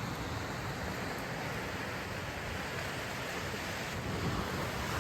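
Steady rush of ocean surf and wind on the coast, an even noise with no distinct events.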